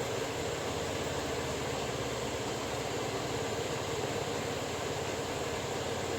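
Steady, even machine noise with a hum in it, running without a break or any rhythm of strokes.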